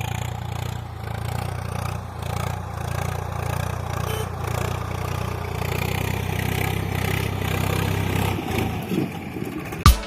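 Steady low hum of a small motor or engine, running evenly and cutting out about eight and a half seconds in, followed by a sharp click near the end.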